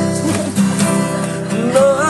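Acoustic guitar strummed in a steady rhythm, accompanying a song between sung lines; a voice slides up into the next line near the end.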